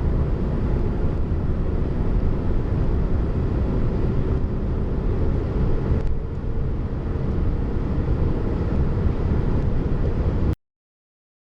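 Mercedes-Benz C 220d's 2.1-litre four-cylinder turbodiesel running with road noise, a steady low rumble, which cuts off abruptly about ten and a half seconds in.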